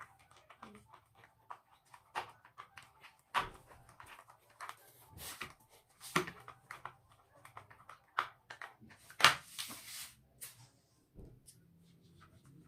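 Irregular clicks, taps and scrapes of screws being driven by hand with a screwdriver into a metal stand's frame, with a louder scrape about nine seconds in.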